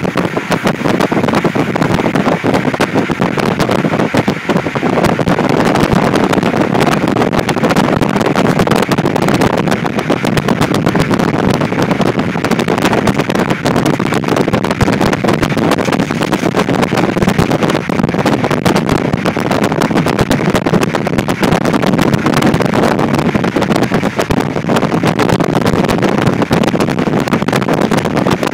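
Passenger train running, heard from inside the carriage: a steady loud rumble of wheels on the rails with dense irregular rattling.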